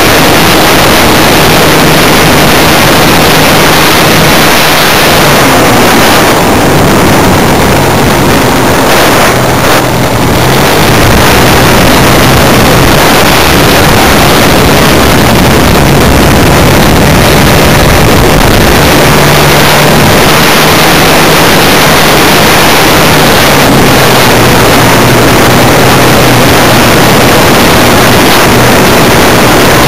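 Motor of a Funtana S90 radio-controlled aerobatic model plane running, its pitch stepping up and down with the throttle, under loud wind noise on a small onboard camera's microphone.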